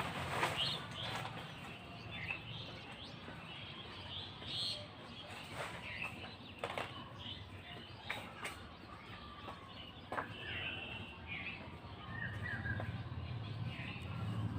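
Small birds chirping in short calls here and there, with a few sharp clicks, over a low steady hum.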